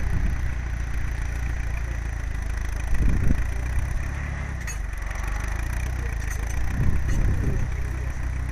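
Tractor engine running steadily, swelling briefly twice.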